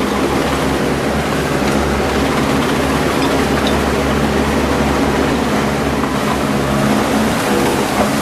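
Swamp-going all-terrain vehicle's engine running steadily under way, a constant low drone with no let-up.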